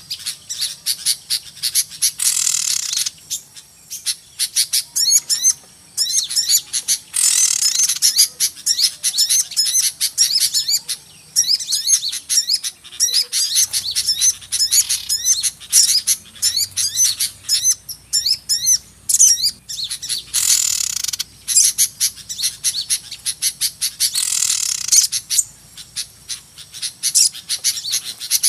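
Dense, busy chorus of small birds chirping and trilling in rapid high notes, with several denser buzzy bursts: a recorded bird-lure call used to draw small birds in for trapping.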